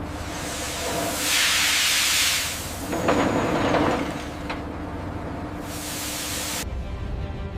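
Loud hissing, like pressurized gas venting, swelling about a second in and again about three seconds in, then cutting off suddenly near the end, over a faint steady hum.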